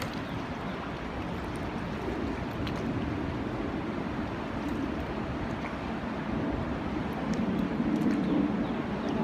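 Steady rushing noise of high, flowing floodwater, with some wind on the microphone, swelling a little louder near the end.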